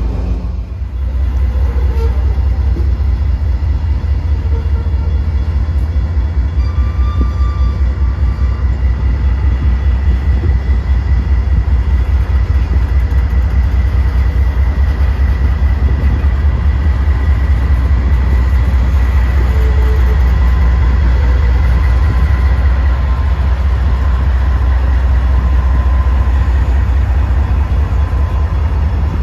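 Freight train of potash hopper cars rolling past, a loud steady rumble with a rapid flutter, and a thin high squeal through the middle stretch.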